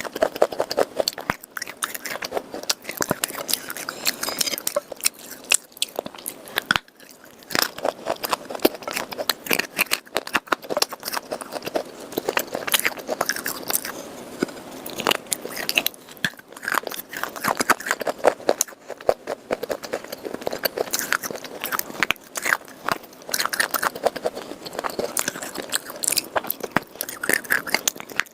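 A person biting and chewing hard pieces of red khawa clay and chalk moistened with water, making a dense run of crisp crunches with a brief pause about seven seconds in.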